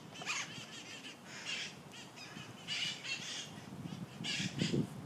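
Wild red-masked parakeets (cherry-headed conures) giving harsh, screeching squawks in repeated bursts about a second apart.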